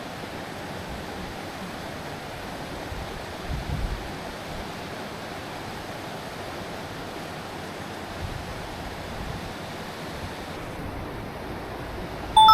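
Mountain stream rushing steadily, with a brief low thump about three and a half seconds in and a short, loud high-pitched tone at the very end.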